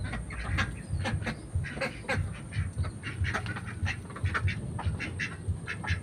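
Birds calling in a quick, irregular series of short calls, several a second.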